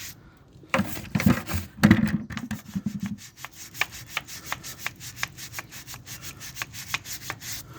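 Stiff scrub brush worked back and forth in rapid strokes over a motorcycle exhaust head pipe, scrubbing off baked-on road dirt. The strokes are heavier for the first few seconds, then lighter and quicker.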